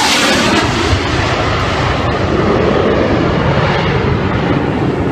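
Fighter jet passing low overhead: a loud jet roar, sharpest and hissiest right at the start, then a lower, duller rumble as it moves away.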